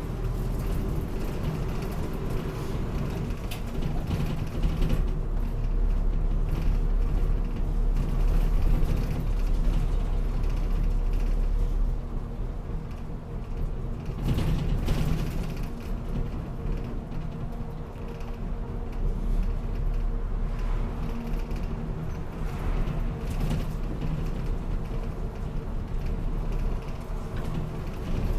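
Route bus under way: the engine runs with a steady drone and low rumble, over creaks and rattles from the bus's body and fittings.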